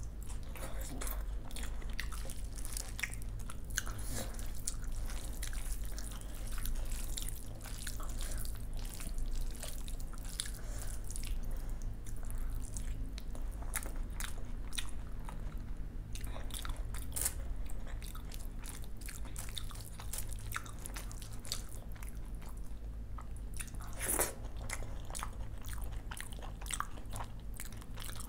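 Close-miked eating by hand: a person chewing mouthfuls of curd rice mixed with fried vegetable dishes, with crunchy bites and wet mouth clicks, over a low steady hum. One sharper, louder crunch comes about 24 seconds in.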